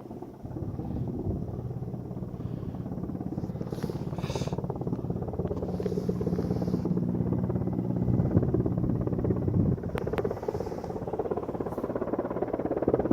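Helicopter running close by with a fast, steady rotor chop; a steady low hum in it drops away a little under ten seconds in.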